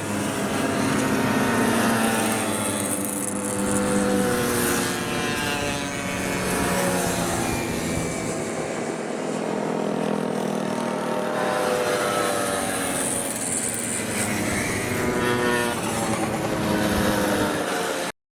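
50cc mopeds passing by on a race track, several small engines revving at once with their pitch rising and falling as each one goes past. The sound cuts off suddenly near the end.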